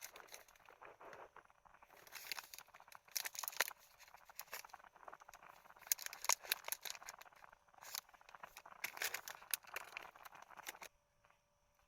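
Irregular crinkling and rustling with sharp crackles, as of something being handled or torn open, starting abruptly and stopping abruptly near the end.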